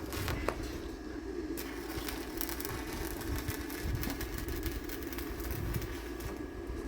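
A steady machine hum with scattered clicks and crackles over a noisy background.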